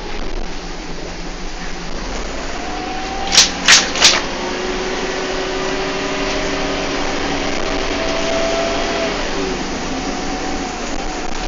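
Bus engine and drivetrain running on the move, heard from on board, with a steady whine whose pitch slowly rises and falls. A little over three seconds in come three loud, sharp knocks in quick succession.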